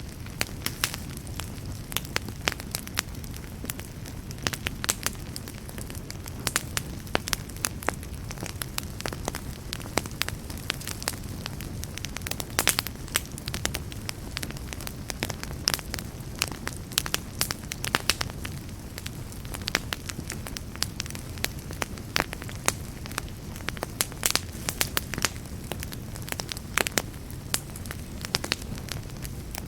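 Wood campfire burning steadily, with a low rumble of flames under frequent sharp, irregular crackles and pops.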